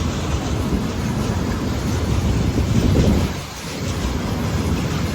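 Freight train hauled by a VL11 electric locomotive rolling past, wagons rumbling steadily on the rails, briefly quieter about three and a half seconds in.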